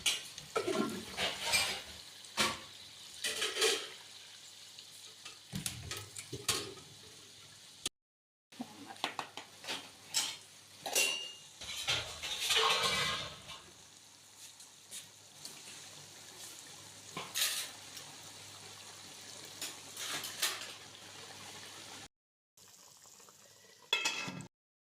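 Metal spoon knocking and scraping against a cooking pot while food is stirred, in irregular clinks, with a light frying hiss underneath. The sound breaks off at a few hard edits.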